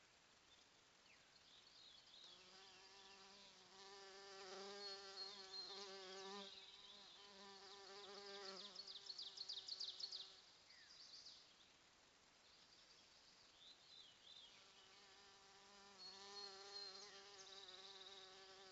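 Honeybees buzzing close to the microphone, a faint wavering hum that swells as bees fly near and fades as they move off, twice.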